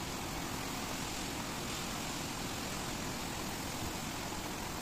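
Heavy storm rain pouring down onto paved ground, a steady, even hiss.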